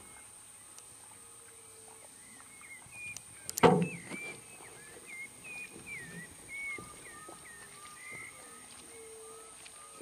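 Birds calling at the waterside, many short whistled chirps overlapping, with a single sharp knock about three and a half seconds in.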